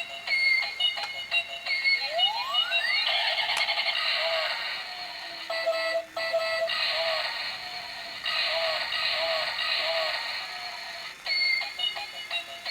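A battery-powered toy car's sound chip playing a tinny electronic tune of beeping tones through a small speaker, with a rising siren-like whoop about two seconds in.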